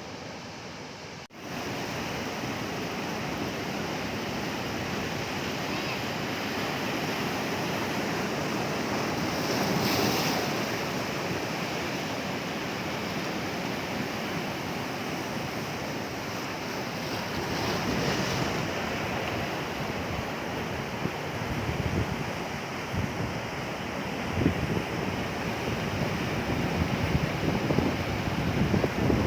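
Sea waves breaking and washing on the shore, a continuous surf noise that swells twice, about a third of the way in and again past halfway. In the last several seconds, wind buffets the microphone in gusts.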